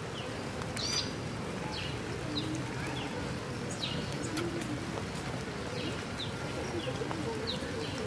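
Small birds giving short, high, falling chirps, a dozen or so scattered through, over a steady hiss of rain.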